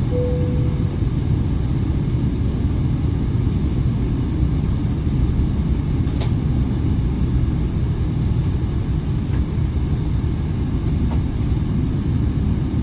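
Steady low rumble of an airliner cabin on the ground or climbing out, the jet engines and airframe noise heard from a passenger seat. At the very start a short chime note sounds, the lower note of a two-tone cabin chime.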